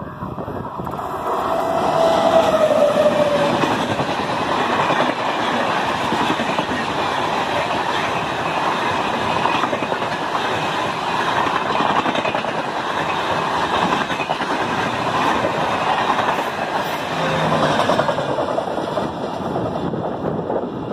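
An express train of LHB coaches passing at high speed: a loud, steady rush of wheels on rail that builds over the first couple of seconds and eases near the end. A brief falling tone sounds about two seconds in.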